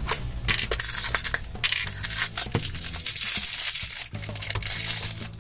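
Crinkly plastic blind-bag wrapping being handled and torn open: a dense run of rapid crackling and crinkling with many small clicks, easing off briefly near the end.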